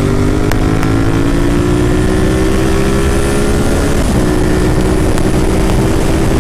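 Honda VTR1000F's 996 cc V-twin engine running under way, its pitch rising steadily as it pulls, dipping briefly about four seconds in and then holding steady, over heavy wind noise on the microphone.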